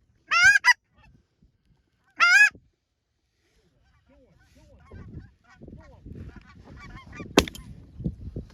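Two loud goose honks, then a rising jumble of softer goose clucks and murmurs, cut by a single shotgun blast about seven seconds in, as a pair of geese is taken over decoys.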